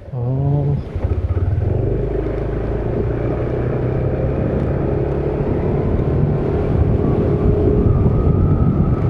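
Motorcycle engine running at a steady pitch while under way.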